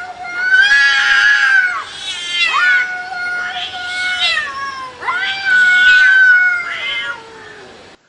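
A domestic cat yowling: three long, drawn-out meows, each about two seconds long and held at a nearly steady pitch, loud.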